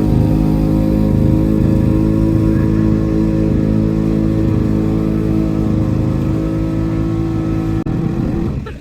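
Lawn mower's small gasoline engine running steadily at a constant speed, then winding down and stopping near the end.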